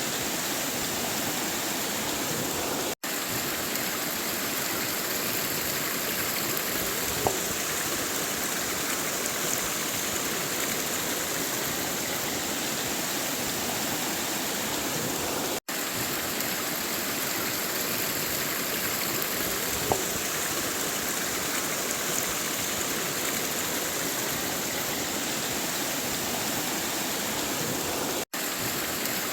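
River water flowing in a steady, continuous rush. Three split-second dropouts to silence break it at even intervals about twelve seconds apart.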